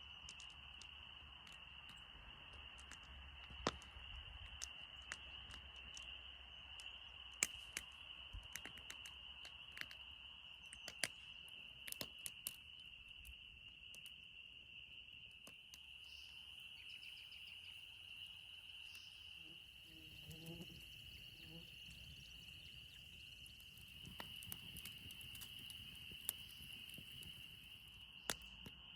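A distant chorus of spring peepers, a steady high-pitched trilling that never lets up. Scattered sharp clicks fall over it, and a short, lower-pitched pulsed call comes about twenty seconds in.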